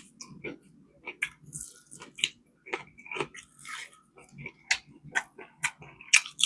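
Close-miked chewing and biting of crunchy food: irregular crisp crunches and crackles with wet mouth smacks, several a second.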